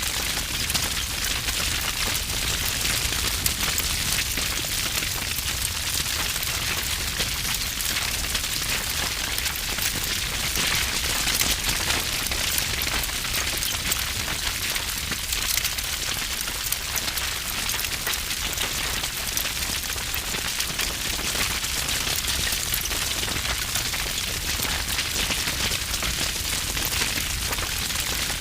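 Wood fire burning with dense, continuous crackling and popping, over a low roar of flame.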